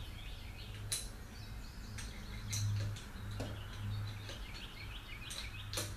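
Birds chirping outdoors, with a few sharp clicks about a second in and near the end over a low steady hum.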